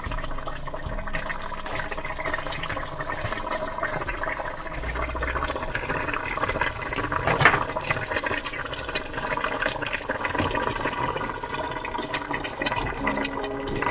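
Watery cooking noise from a pot of liquid, a dense steady bubbling, with background music faint underneath.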